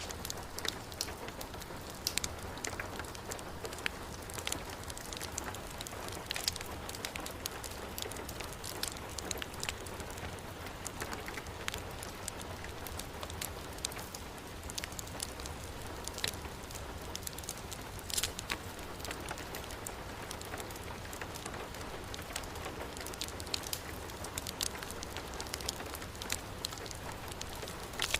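Steady heavy rain hissing, with scattered sharp crackles and pops from a burning wood fire.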